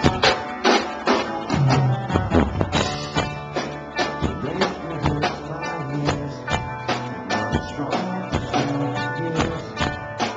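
Live rock band playing loud: drums striking in a steady beat under electric guitars and bass, recorded through a small camcorder microphone.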